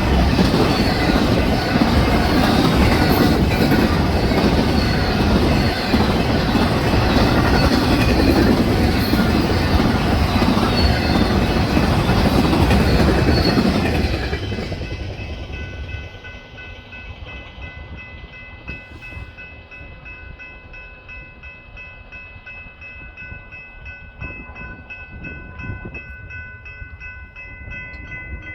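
A train passing close by, its cars clattering loudly over the rails, until the noise fades away about halfway through. Afterwards a few steady high tones with a faint even pulse remain, much quieter.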